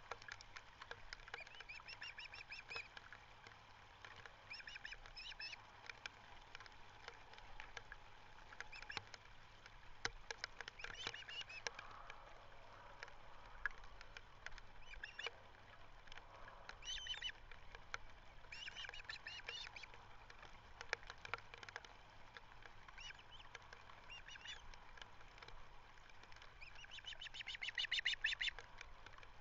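Ospreys calling: short series of rapid, high whistled notes, repeated every few seconds, with the loudest series near the end.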